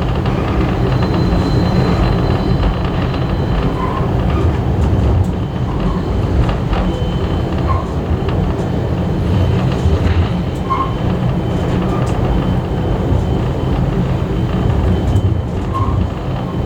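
Railway carriage running along the track behind a steam locomotive: a steady low rumble with scattered small clicks and a few brief faint squeaks.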